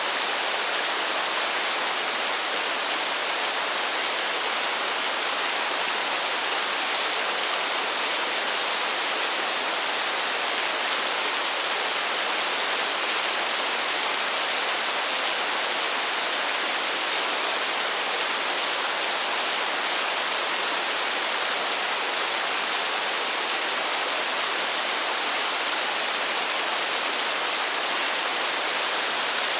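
Steady rainfall: an even, unbroken hiss with no single drops standing out.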